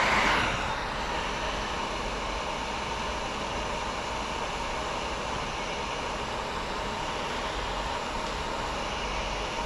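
Steady whooshing air noise like a running blower, a little louder in the first half second, then holding even.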